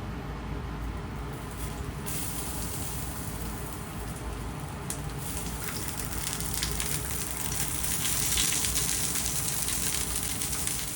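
Food sizzling and crackling as it fries in a hot pan, the sizzle coming in about two seconds in and growing louder, over a steady low hum.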